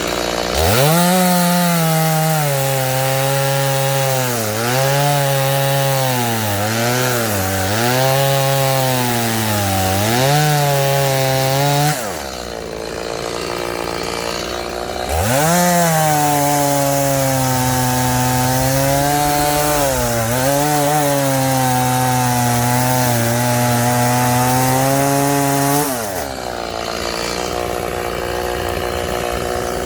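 Two-stroke chainsaw revved up and cutting through firewood logs twice, each cut lasting about eleven seconds, with the engine pitch dipping and wavering as the chain bites. It drops back to a lower idle between the cuts and near the end.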